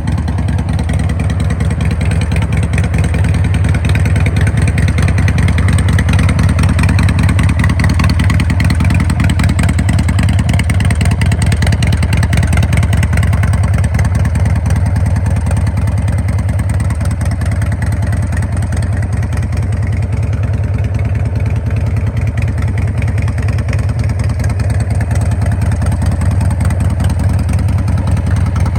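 Engine of a 2010 custom 1340 motorcycle running steadily at an even speed, with no revving.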